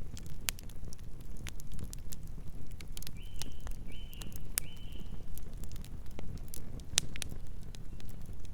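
Campfire crackling and popping: scattered sharp snaps over a steady low rumble of burning wood. Three short, high chirps come in quick succession about three seconds in.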